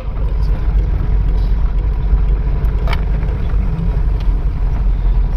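Truck under way, its engine and road noise a steady low rumble, with a single short click about three seconds in.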